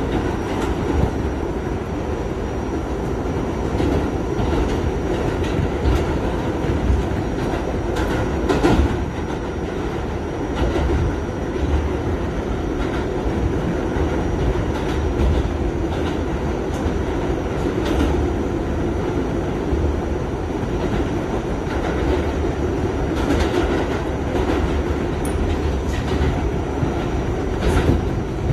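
Kawasaki R68A subway train running on the rails: a steady rumble, with the wheels clicking sharply over rail joints every few seconds.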